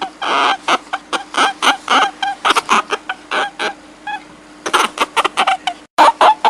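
A rapid series of short, harsh animal calls, several a second, over a steady low hum, cut off by a brief gap of silence about six seconds in.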